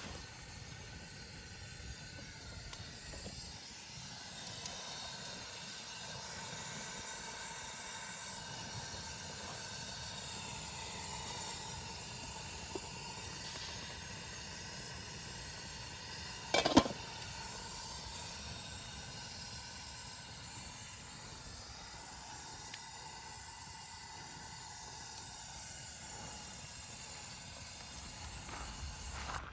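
Steady outdoor hiss with faint steady high-pitched bands running through it, and one sharp click or knock about two-thirds of the way through.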